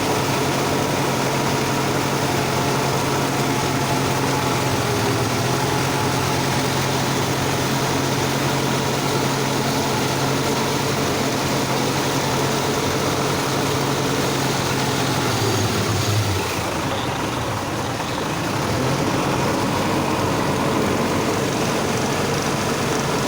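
Sonalika tractor's diesel engine running steadily while working a rotavator through deep mud. About two-thirds of the way through, the steady engine note breaks off and the sound dips for a few seconds before coming back up.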